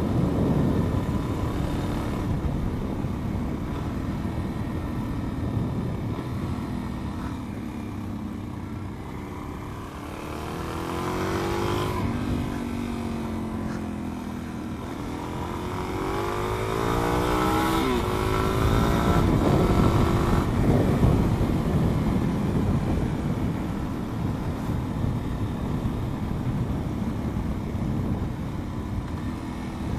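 Supermoto motorcycle engine running under way, with wind rushing over the microphone. From about ten seconds in it accelerates through the gears: the pitch climbs, drops at each shift and climbs again, three or four times.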